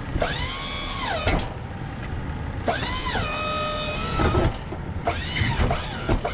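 Electric motor of a Boss snow plow's hydraulic pump whining in three short runs, each spinning up and winding down, as the plow's hydraulics are worked to lift it and lock it onto the truck mount. A truck engine idles underneath.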